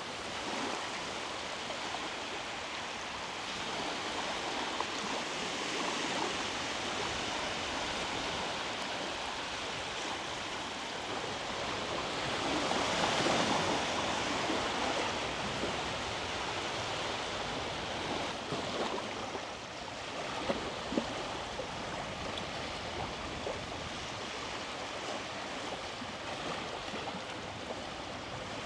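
Sea waves washing onto the beach: a steady rushing surf, with one louder wave breaking about halfway through.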